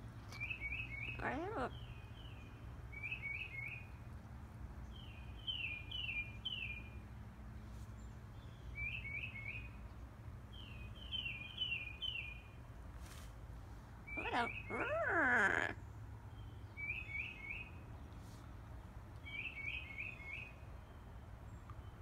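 A wild songbird calling outside, in repeated clusters of three or four quick falling chirps every two to three seconds. A pet Amazon parrot answers with a short call about a second in and a longer, louder vocalisation around two-thirds of the way through.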